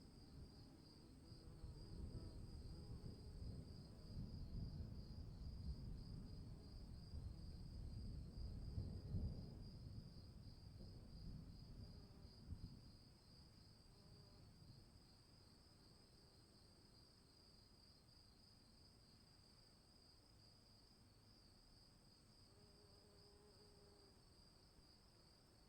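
Faint, steady insect trilling, a high pulsing chorus of crickets-like insects. A low rumble underneath fades out about thirteen seconds in.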